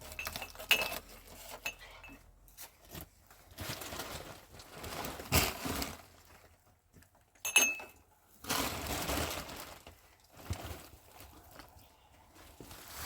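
Things being handled: irregular rustling and scraping, with two sharp clinks that ring briefly, one shortly after the start and one a little past the middle.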